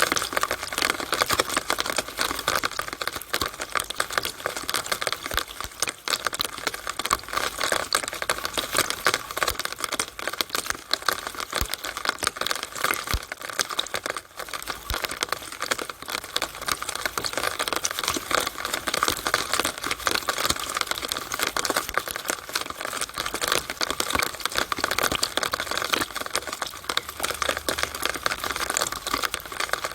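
Rainwater running and dripping in a downspout during rain: a dense, steady patter of fine drips and splashes with no pauses.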